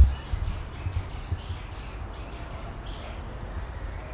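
Small birds chirping, a quick run of short high calls that stops about three seconds in, over low rumbling thumps, the loudest a thump right at the start.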